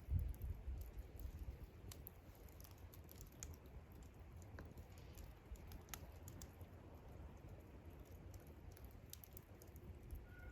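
Wood campfire crackling faintly, with scattered small pops and ticks at irregular intervals over a low rumble that is strongest at the start.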